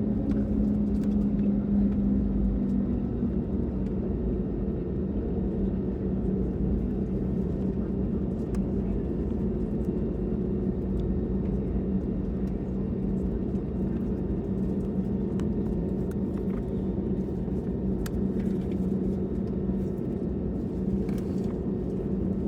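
Cabin noise inside an Airbus A320neo: its CFM LEAP-1A engines running steadily with a low, even hum over a constant rumble.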